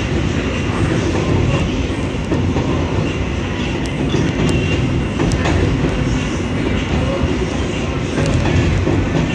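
R160 subway car running between stations, heard from inside the car: a steady loud rumble of wheels on rails, with a few faint clicks from the track.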